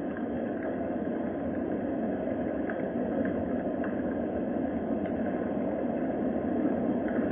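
Steady rain falling, an even rushing hiss with faint scattered ticks of drops.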